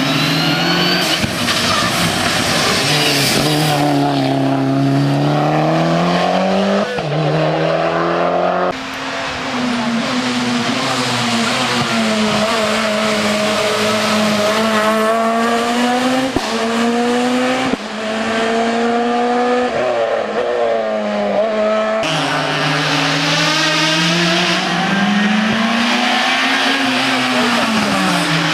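Hillclimb race car engines at high revs, the pitch climbing through each gear and dropping sharply at each shift, with lifts and re-acceleration for the bends. The sound changes abruptly about 9 and 22 seconds in, as from one car to another.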